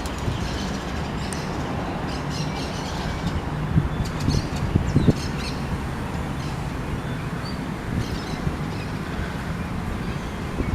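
Outdoor ambience of steady wind rumble on the microphone under distant traffic, with a few short bird chirps in the middle.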